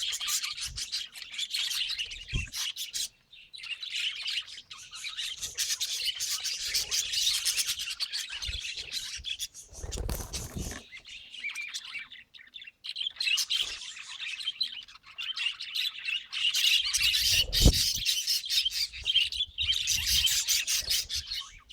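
Budgerigars chattering and warbling in a rapid stream of chirps and squawks, with a couple of dull thumps, the loudest about eighteen seconds in.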